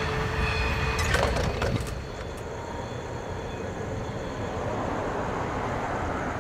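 Freight train rumbling past with a faint steady squeal, a brief cluster of clicks about a second in, then an abrupt change about two seconds in to a steady outdoor hiss with wind on the microphone.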